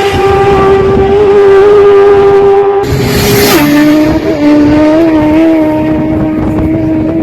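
Racing motorcycle engine held at high revs, a steady pitched howl that steps down in pitch about three and a half seconds in. Just before the step there is a brief burst of rushing noise.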